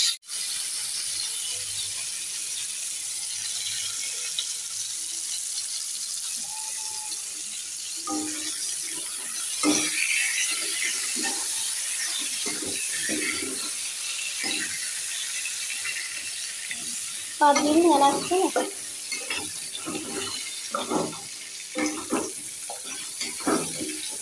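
Pointed gourd slices sizzling steadily in hot oil in an iron kadai. From about eight seconds in, a metal spatula stirs and turns them against the pan, and voices are heard in the background.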